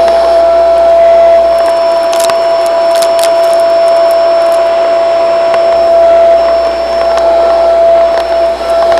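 Shark vacuum cleaner running steadily with a high motor whine and rushing air. A few brief clicks come about two to three seconds in.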